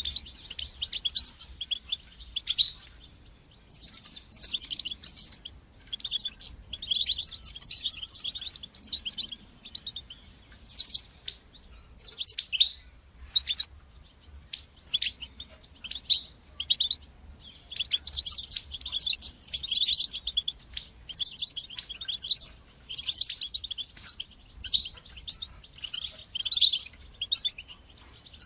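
European goldfinch singing: quick, high-pitched twittering phrases of rapid trills and chirps, broken by short pauses.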